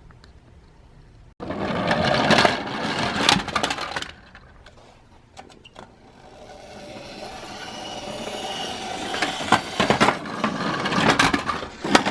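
Toy minicars rolling and clattering along a track. The rattle starts suddenly after about a second and a half, there are scattered clicks in the middle, and the rolling noise builds again toward the end with sharp clicks.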